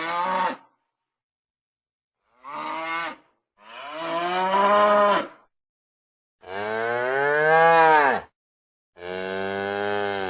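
Cow-like lowing calls used as creature sound effects for a woolly rhinoceros (Coelodonta): a series of separate moos with rich harmonics, each cut off cleanly into silence. A call ends about half a second in, then four more follow. The fourth is the longest and loudest and rises and then falls in pitch.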